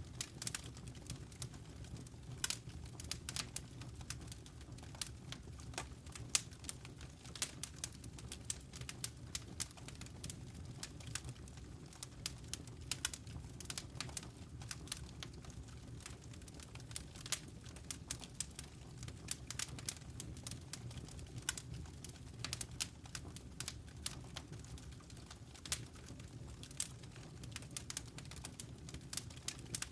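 Wood fire crackling in a fireplace: many small, irregular snaps and pops over a steady low rumble of the burning flames.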